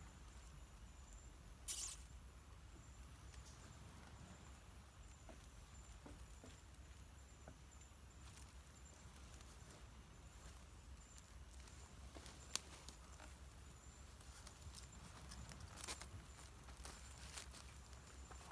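Near silence with a few faint clicks and rustles: one soft rustle about two seconds in, a single sharp click past the middle, and a couple more near the end.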